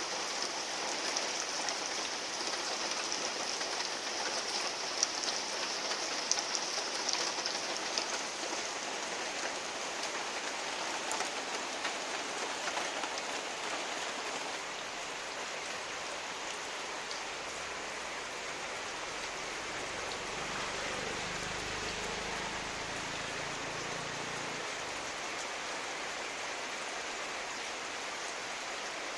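Heavy rain falling steadily, with scattered sharper drop hits. A faint low rumble comes in about halfway through and fades again.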